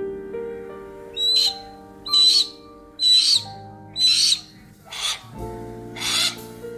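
A bird of prey calling repeatedly: about six short, high, rasping calls roughly a second apart, over background music with sustained notes.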